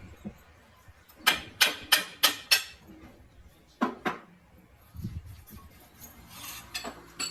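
Steel striking steel in a machine shop: a quick run of five ringing metal clinks, then a single clink and a few softer ones near the end.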